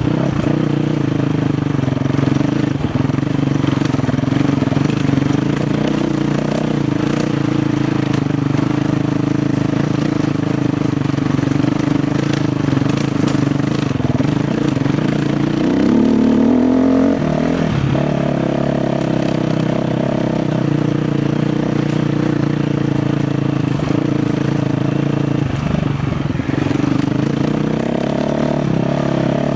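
KTM 350 XC-F dirt bike's single-cylinder four-stroke engine running at steady part throttle on the trail, with a brief rev that rises and falls a little past halfway.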